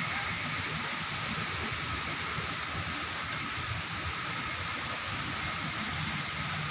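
Waterfall's water pouring and rushing in a steady, even roar, with a faint steady high-pitched whine above it.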